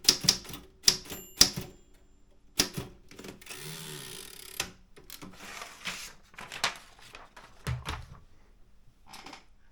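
Keys of an Optima M10 manual typewriter striking in a quick run, then slowing to scattered strikes. There is a longer sliding mechanical sound about three and a half seconds in, and a dull thud near the end.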